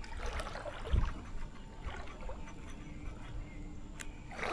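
Creek water running over riffles, a steady wash, with a low bump about a second in and a small click near the end.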